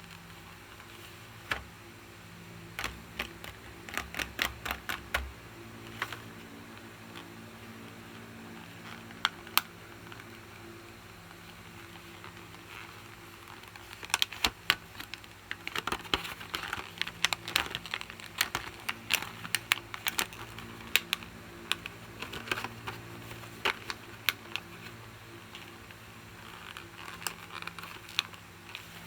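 Sharp plastic clicks and taps from handling plastic action figures and their packaging close to the microphone: scattered at first, then quick and dense through the second half, over a steady low hum.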